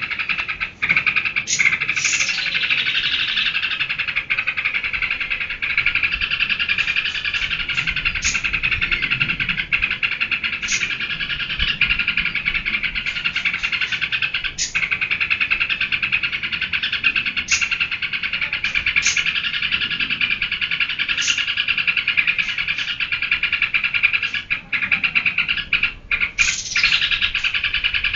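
Yellow-vented bulbul (trucukan) singing non-stop in a rapid, unbroken chatter, with short high chirps breaking through every few seconds.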